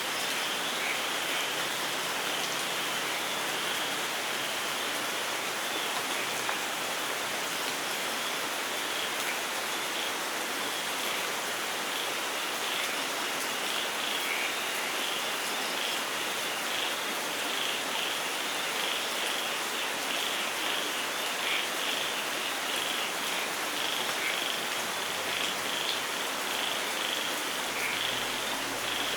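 Steady light rain falling, with a dense chorus of short, high chirping calls repeating throughout over the rain.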